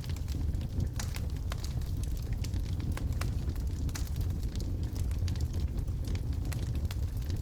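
Wood logs burning in a fireplace: frequent sharp crackles and pops, irregularly spaced, over a steady low rumble of the flames.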